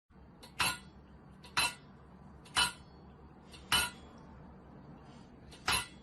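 Five short, sharp clinks or knocks from hard objects striking, roughly a second apart.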